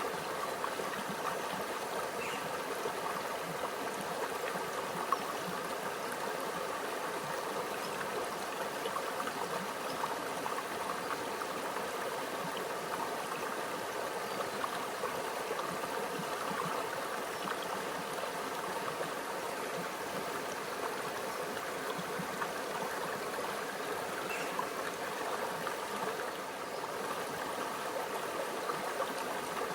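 A small stream flowing and trickling steadily, with a gentle babbling of water over stones.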